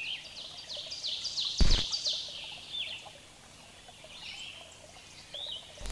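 Birds chirping over a faint outdoor background: a quick run of high, descending chirps, thinning out after the first couple of seconds. A sudden thump about a second and a half in is the loudest sound, and another starts right at the end.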